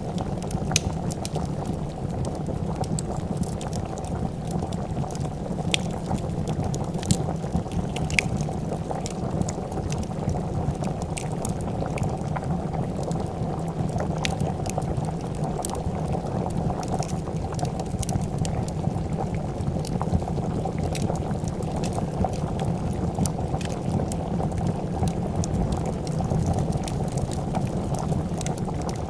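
A pot of soup boiling at a steady, continuous bubble, with scattered sharp pops and snaps of a wood fire crackling.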